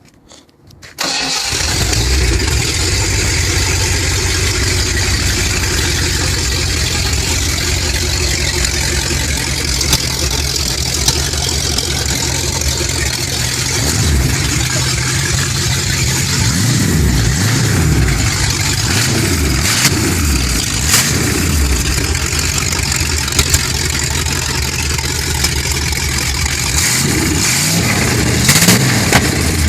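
A 5.0-litre V8 on open headers starts up about a second in and settles into a loud, lumpy idle. It is revved several times in the middle and again near the end.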